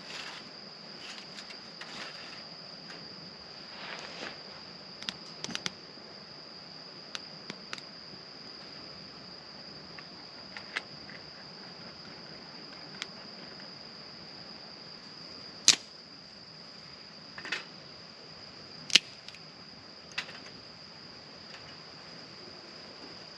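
Insects, crickets by their sound, trilling steadily on one high note, with scattered sharp clicks and snaps; the two loudest come about two-thirds of the way through.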